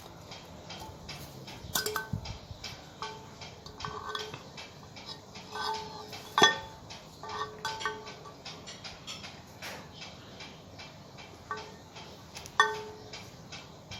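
Light metal clinks and taps from small metal parts being handled. A dozen or so of the clinks ring briefly at a clear pitch, over a steady run of small clicks.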